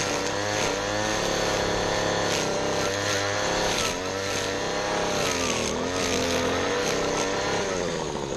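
Small petrol engine of a piece of lawn equipment running under load, its pitch dipping and recovering a couple of times, with scattered sharp ticks.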